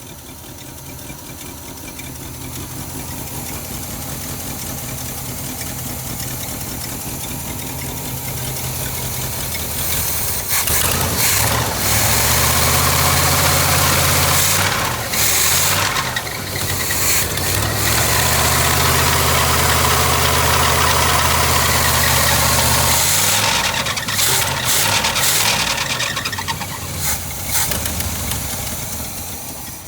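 1972 Cadillac Eldorado's 500 cubic-inch V8 running. It idles steadily for about ten seconds, is then raised twice to a higher speed and held there for a few seconds each time, and settles back down near the end.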